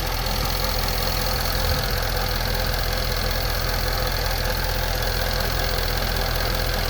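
Supercharged V8 engine of a Range Rover idling steadily, just restarted after its engine repair.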